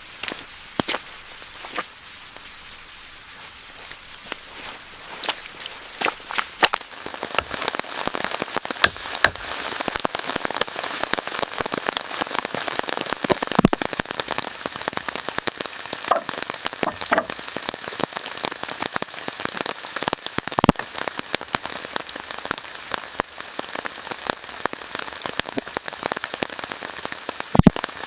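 Rain falling, with many separate drops striking close by among the steady hiss; it grows heavier about a quarter of the way in.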